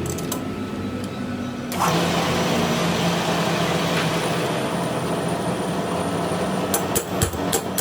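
An engine running steadily, growing louder from about two seconds in, with a few sharp clicks or knocks near the end.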